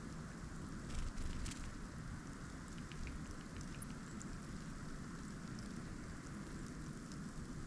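Steady outdoor ambient hiss from a bird-feeder cam's microphone, with a few light ticks about a second in and again around three seconds.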